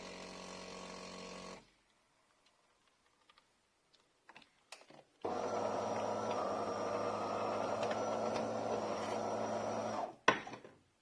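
De'Longhi Magnifica S automatic espresso machine at work. A steady motor hum cuts off about one and a half seconds in, then a few small clicks. About five seconds in the machine starts up again with a louder steady buzz for about five seconds, which stops with a sharp clack.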